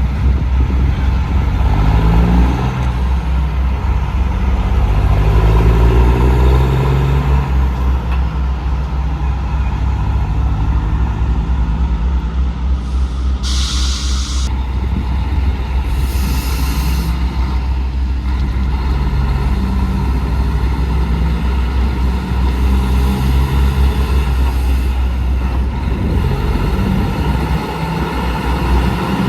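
Diesel semi-truck engines running with a heavy low rumble, their pitch rising and falling as the trucks change speed. About halfway through comes a short hiss of air-brake air, then a fainter hiss soon after.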